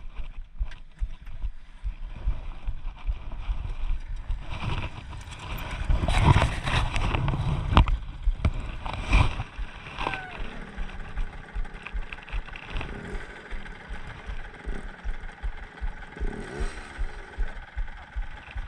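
Dirt bike engine running under way, with a dense low rumble and uneven knocks that are loudest between about five and eight seconds, and a brief rise in engine pitch near the end.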